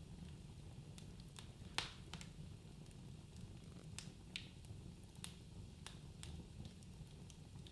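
Wood fire crackling in a fireplace: irregular sharp pops and snaps over a low, steady rumble of the flames, the loudest pop a little under two seconds in.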